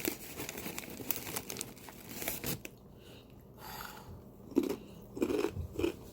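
Close-up eating of a cream-cheese-stuffed jalapeño coated in crushed Doritos Dinamita chips: sharp crunching crackles from the chip coating, then rhythmic chewing about four and a half seconds in.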